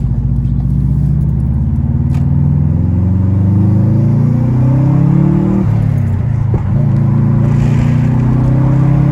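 2002 Subaru WRX's turbocharged flat-four running through an Invidia N1 race exhaust, its pitch climbing steadily under acceleration. About five and a half seconds in, a gear change drops the revs, and the engine pulls on again.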